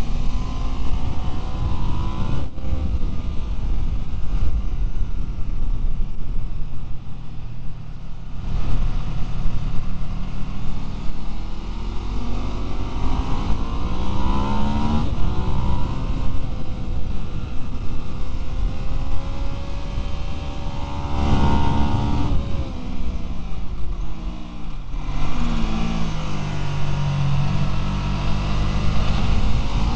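Onboard sound of a Ducati superbike's V-twin engine at racing speed: revs climbing hard under acceleration and dropping off for the corners several times, with wind rushing over the microphone.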